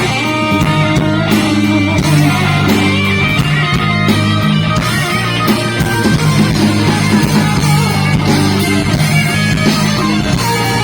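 Live rock band playing: an electric guitar solo of held melodic notes over steady bass and drums with cymbals.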